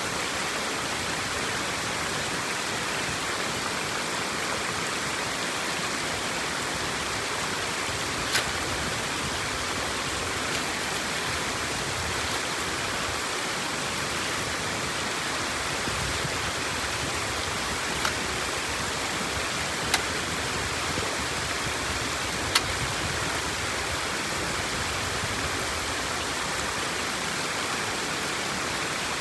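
Water rushing steadily, like flow pouring through a drained dam, with four sharp clicks spread through it.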